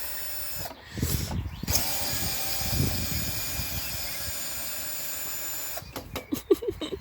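Power drill running, cutting out briefly about a second in, then running steadily for about four seconds. A few sharp clicks and knocks follow near the end.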